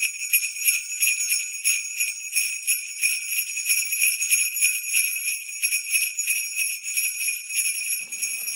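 Sleigh bells shaken steadily in a quick, even rhythm, a bright jingling with nothing low beneath it. Near the end a faint low rushing noise comes in under the bells.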